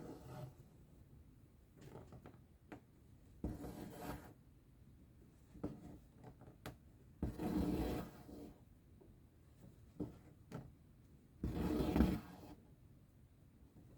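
Embroidery thread drawn through cross-stitch fabric with a needle: three rubbing swishes about a second long, roughly four seconds apart, with faint ticks of the needle between them.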